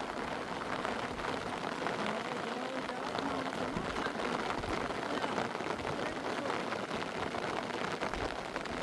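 Steady rain falling, with many fine drop ticks and no break or change.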